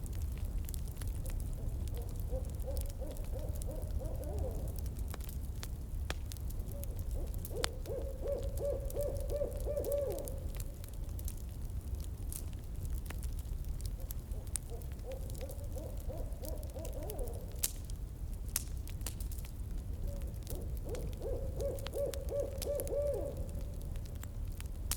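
An owl hooting in four phrases, each a run of hoots two to three seconds long, spaced several seconds apart. Underneath, a campfire crackles with scattered sharp pops over a low, steady rumble.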